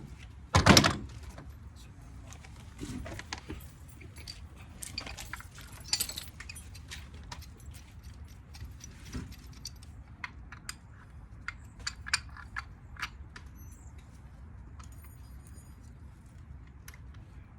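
Metal clinking, tapping and scraping as a ceiling fan motor is dismantled by hand with tools, with one loud knock about half a second in and scattered clicks that thin out near the end.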